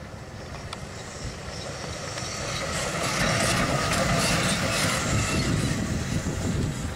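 Electric locomotive passing close by, the rumble and clatter of its wheels on the rails growing louder as it comes near and at its loudest a few seconds in as it goes past.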